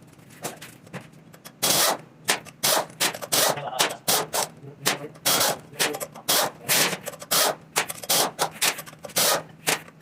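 Hand tools and metal parts clicking and knocking in an irregular run of sharp clanks, a few each second, as a Toyota 1FZ-FE engine is being taken apart.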